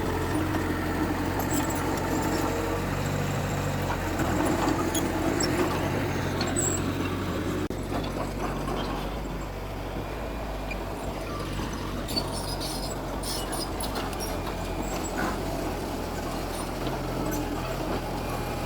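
Heavy diesel engines of earthmoving machinery running steadily, with a few light clanks about twelve seconds in.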